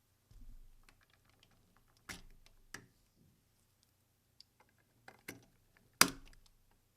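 Hard plastic parts of a DX Gaoranger combining-robot toy clicking and snapping as they are handled and fitted together. There is a soft thump about half a second in, then several sharp clicks, the loudest about six seconds in.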